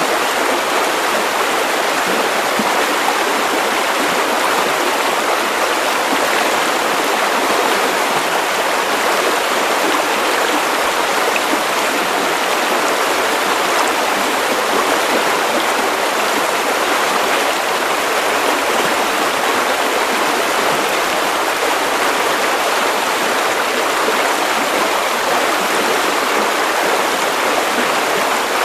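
Steady white noise for baby sleep: an even, unchanging hiss with little deep rumble, at a constant level throughout.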